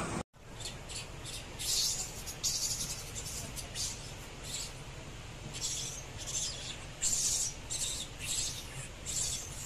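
Outdoor ambience: high-pitched chirping in short repeated bursts, one or two a second, over a steady low rumble.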